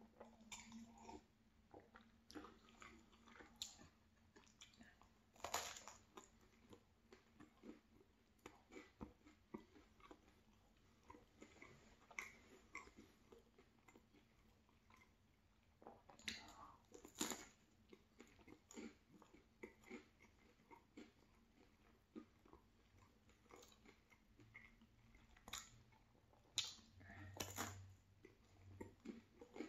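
Close-miked chewing of a soft cheese bagel: small wet mouth clicks and smacks, with a few louder bites standing out among them.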